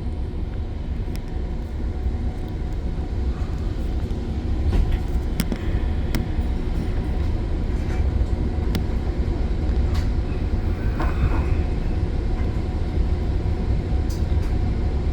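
GO Transit commuter train heard from inside a passenger coach: a steady low rumble that grows slightly louder over the first several seconds, with a few faint clicks, as the train begins to pull away from the station.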